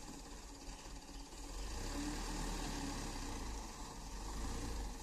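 Truck engine running with a steady low drone, easing off about a second in and picking up again about two seconds in.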